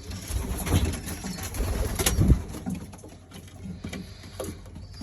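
Pigeons cooing in a loft, with a sharp knock about two seconds in.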